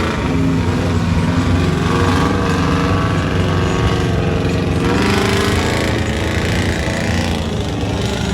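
Off-road truck engines running loud and hard, their pitch rising and falling.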